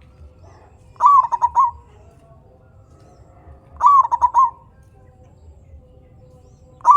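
Zebra dove (perkutut) cooing: two short phrases of rapid stuttering notes, about three seconds apart, with a third phrase starting at the very end.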